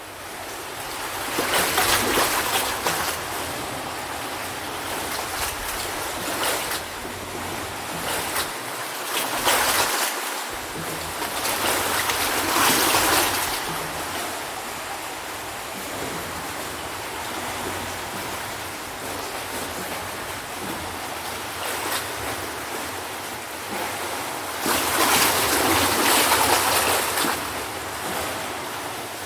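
Ocean surf breaking on a beach: a steady wash of water that swells with each breaking wave and eases between them. It fades in at the start, and the loudest waves come a couple of seconds in and again near the end.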